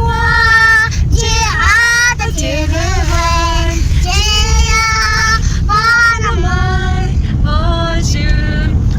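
Children and women singing a song together in sustained, gliding notes, over a steady low rumble.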